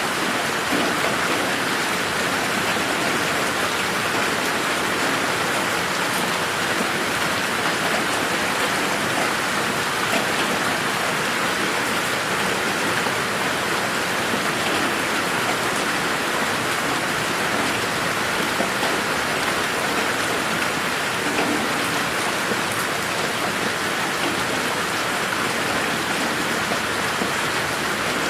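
Steady rain falling on a garden: a dense, even hiss of rain with scattered individual drops ticking on surfaces.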